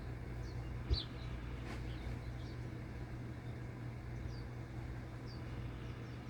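Short, high chirps from a small bird, each dropping slightly in pitch, repeating irregularly about every second over a steady low rumble. A single dull thump about a second in is the loudest sound.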